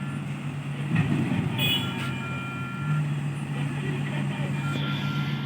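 Heavy diesel engine running steadily at low revs, with an on-off high beeping of a reversing alarm over it and a single knock about a second in.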